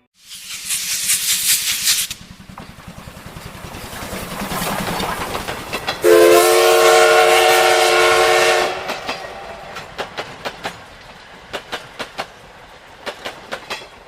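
Steam locomotive: a loud hiss of steam for about two seconds, a rising rush, then the steam whistle blowing one steady blast of about two and a half seconds. After it, a run of sharp clicks of wheels over rail joints.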